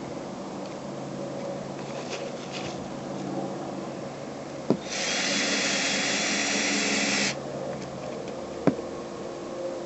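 Power drill driving a screw through a thin aluminum patch into the trailer roof: one steady run of about two seconds midway, with a sharp click just before it and another about a second after.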